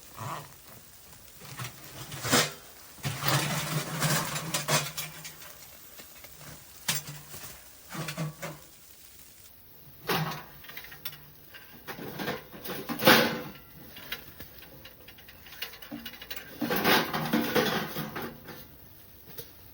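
Irregular knocks, clinks and rustling of gear being handled at close range, with louder stretches of rustling a few seconds in and near the end.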